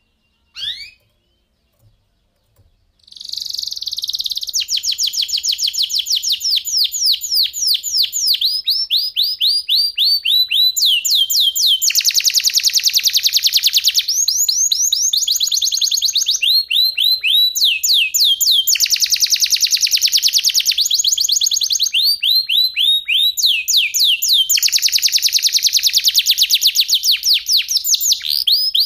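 Domestic canary singing: a short chirp, then from about three seconds in a long unbroken song of rapid repeated rolling notes, broken by several stretches of fast, dense trills.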